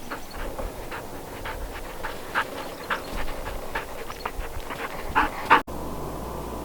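A dog whining and yipping in a quick, uneven run of short calls, until the sound cuts off suddenly near the end.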